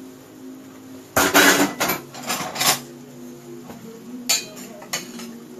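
A serving spoon clattering and scraping against a bowl as food is dished out. There is a burst of clatter about a second in, then two lighter clinks near the end.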